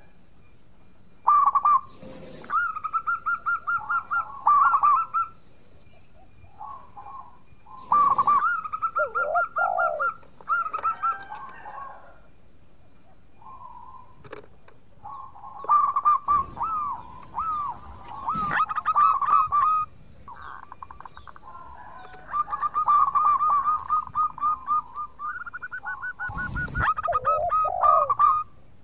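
Zebra dove (perkutut) singing: repeated phrases of rapid, staccato cooing notes, each phrase lasting one to three seconds, with short pauses between them. A few sharp knocks sound between the phrases.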